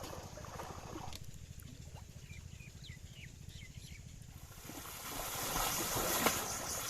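Water trickling and splashing, with a few short high chirps in the middle. From about five seconds in, a louder pulsing insect trill sets in.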